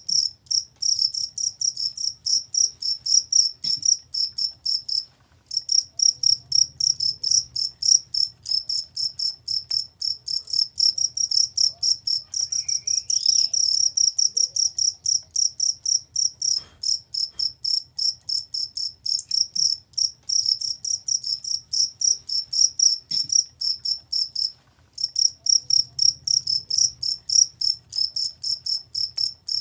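A field cricket (jangkrik) chirping: a steady, high-pitched pulsing trill, briefly breaking off twice, about five seconds in and near the end.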